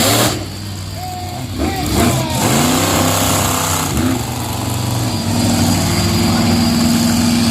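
Monster truck engines running hard, with a sharp loud crackle at the start. About two seconds in the engines rev up in rising pitch, then settle into a steady drone.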